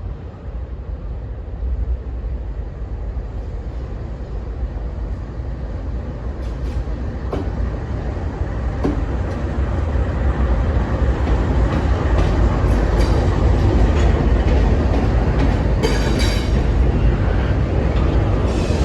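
Norfolk Southern intermodal freight train approaching and passing, a heavy low rumble growing steadily louder, with wheel clicks on the rails and a brief high-pitched squeal near the end.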